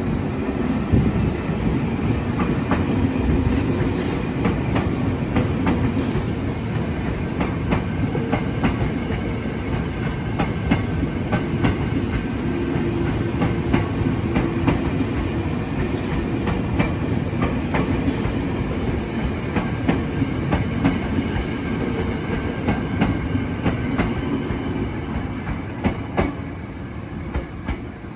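Former Tokyo Metro 6000-series electric commuter train running through the station, with a steady motor hum and wheels clicking over rail joints. The sound fades near the end.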